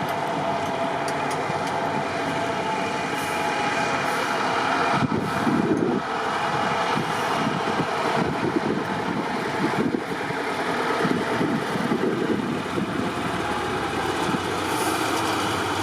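Competition trial truck's engine running hard off-road, its loudness surging and easing as it works.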